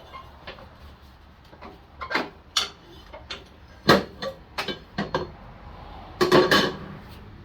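Irregular metallic clinks and clanks of hand tools, sockets and a ratchet, being handled and knocked against metal, with a quick cluster of clanks near the end.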